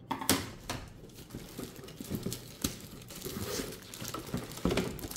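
Plastic packaging crinkling and rustling irregularly as ceiling fan blades are handled and pulled out of it, with a sharper crackle just after the start and another near the end.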